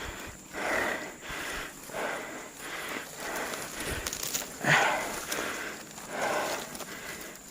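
Repeated rustling, about one swish a second, with a louder swish near the middle.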